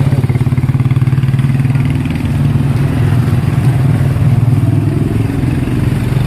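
Motorcycle engine idling close by, running steadily with a rapid, even pulsing beat.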